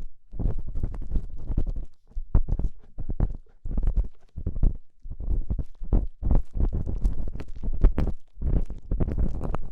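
Close-miked ear-cleaning sounds: an ear-cleaning tool scraping and rubbing inside a microphone's ear, giving dense crackly scratches over a low rumble, in irregular strokes with brief pauses about two and five seconds in.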